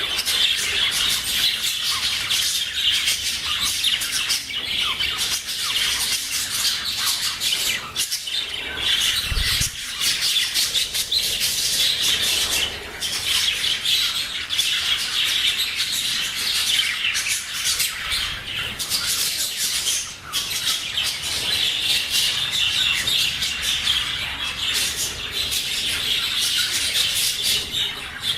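English budgerigars chattering and warbling without pause, a dense run of clicks, squawks and chirps, with one dull low bump about a third of the way through.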